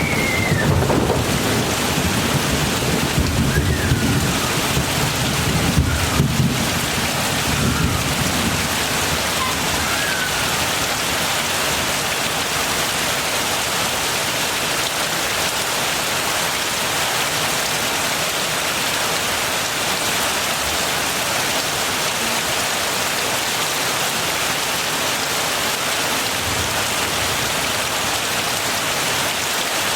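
Heavy rain falling steadily, a dense even hiss, with a low rumble of thunder in the first several seconds that dies away about eight seconds in.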